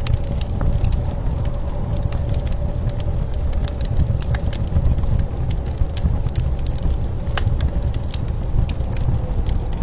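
Wood fire crackling with frequent sharp pops, over a steady low rumble of blizzard wind.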